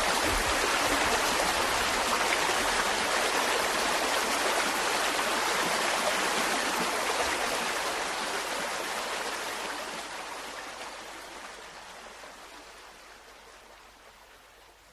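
Mountain stream flowing steadily, then fading out gradually over the second half.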